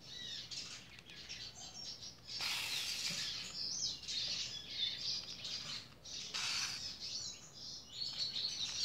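Small birds chirping repeatedly in the background, with two short rustles of stiff grosgrain ribbon as a needle and thread are drawn through it during hand-stitching.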